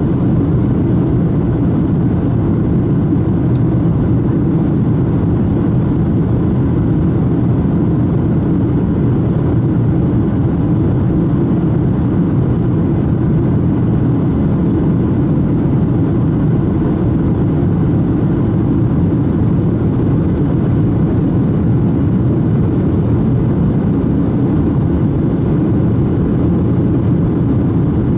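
Steady cabin noise inside a Boeing 737-600 airliner: an even, low drone of engines and airflow, with no change in pitch or level.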